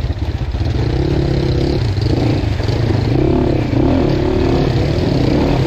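Dirt bike engine running on a trail ride, its pitch rising and falling repeatedly as the throttle is worked.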